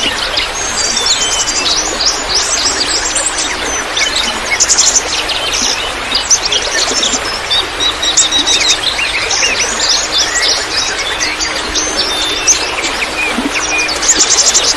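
A chorus of many small songbirds chirping and twittering at once, with quick trills, over a steady hiss of trickling water.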